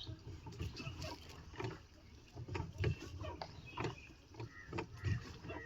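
Small rowing or pedal boat on a lake: irregular knocks and thumps of the boat and its oars or paddles working in the water, over a low rumble.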